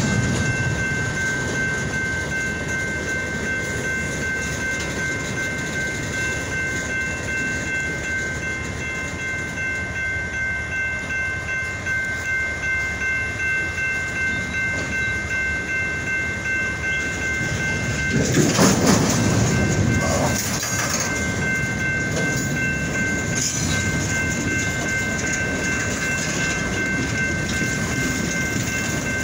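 Freight train of boxcars rolling past at close range, wheels rumbling and clacking over the rail joints in a faint steady rhythm. A steady high-pitched whine runs underneath, and the rumble swells louder about two-thirds of the way through.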